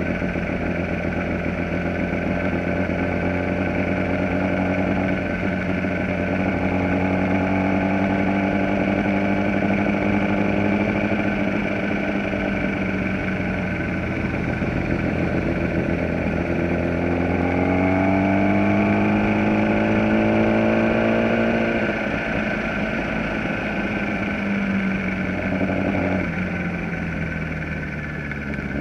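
Onboard sound of a Kawasaki ZX-10R's inline-four engine at moderate revs, its pitch climbing slowly and then dropping sharply at gear changes about three quarters of the way through and again near the end, over a steady rush of wind.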